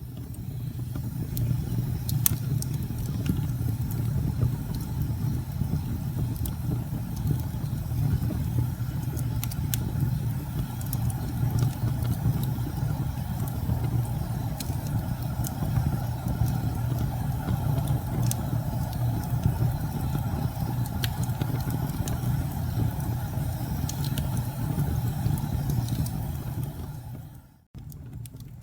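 Campfire burning: a steady low roar of the flames with scattered sharp crackles and pops of burning wood. The sound drops out briefly near the end and comes back quieter.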